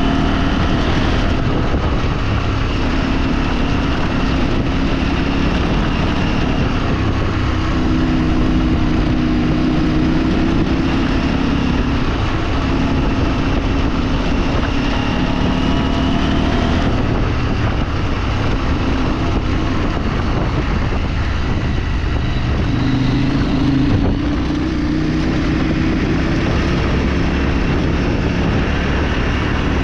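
A vehicle engine running under way, its pitch rising and falling with the throttle, over a steady rushing noise.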